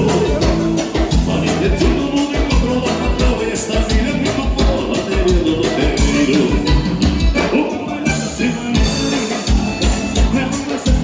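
Live gaúcho dance band playing an instrumental passage, button accordion and keyboard over a steady drum and bass beat.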